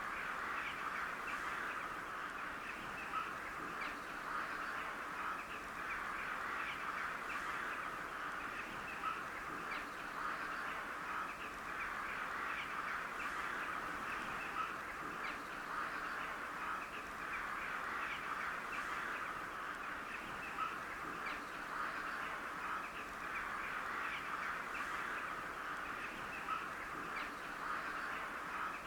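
A large flock of crows calling continuously: many short caws overlapping into a steady chatter, with no let-up.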